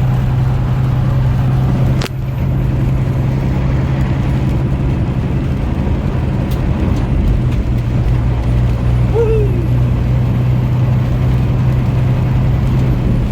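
Steady engine hum and road noise inside a moving truck's cab at highway speed, with a single sharp click about two seconds in.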